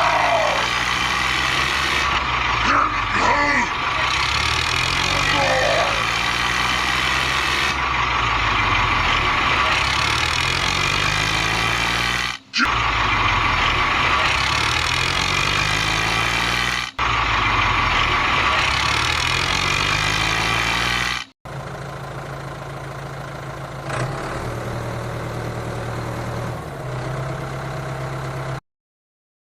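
An engine running steadily, its pitch sliding up and down in the first few seconds. It breaks off abruptly several times and comes back, and near the end it runs at a lower, quieter level. Short voice-like cries sound over it in the first few seconds.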